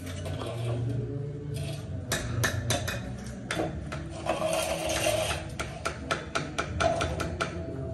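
Irregular sharp taps and knocks, several a second, from about two seconds in, over a steady low hum.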